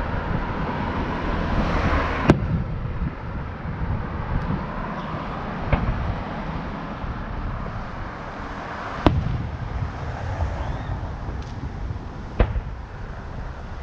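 Fireworks going off in the distance: four sharp bangs, each three to four seconds apart, over a steady low rumble.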